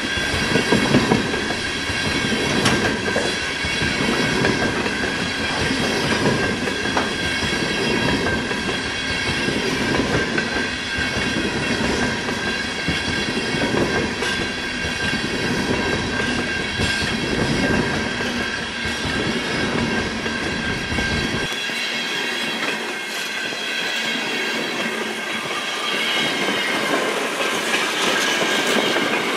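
Loaded GATX tank cars of a freight train rolling past close by: a steady rumble of steel wheels on rail, irregular clicking from the wheels, and high steady ringing squeal from the wheels. About two-thirds of the way through, the low rumble drops away abruptly.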